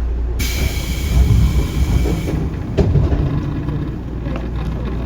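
Running sound of a Tobu 9050 series electric train on the move: a steady low rumble of wheels and traction equipment on the rails. For about two seconds near the start a loud high hiss with faint whining tones joins in, and a single sharp knock comes a little before the middle.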